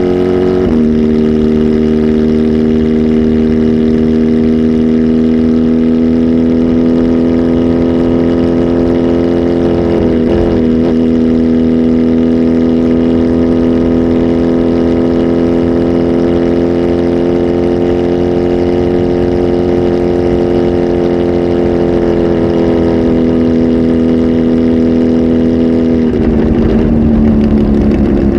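Kawasaki Z H2 SE's supercharged inline-four, flash tuned with a full aftermarket exhaust, held at a steady raised engine speed. The pitch dips slightly just after the start and flutters briefly about ten seconds in. Near the end the revs drop and the note turns rougher.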